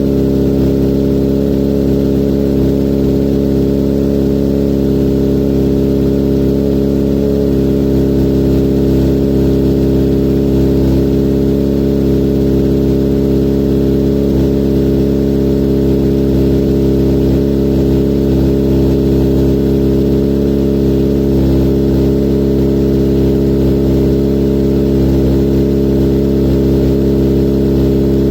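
2018 Kawasaki Z900's inline-four engine idling steadily after a cold start through an Akrapovic full exhaust with the dB killer removed. The pitch and level stay even, with no revving.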